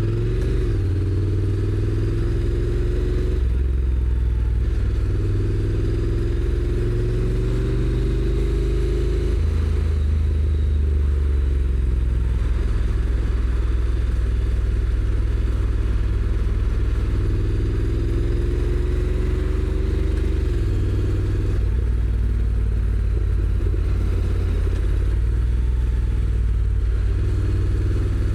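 Honda NC750X's parallel-twin engine running on its stock exhaust, under way. Its pitch climbs several times and drops back each time, as the bike accelerates and the dual-clutch gearbox shifts up.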